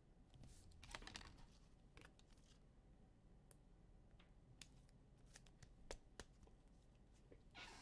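Faint, scattered clicks and rustles of trading cards and their sleeves or wrappers being handled and sorted.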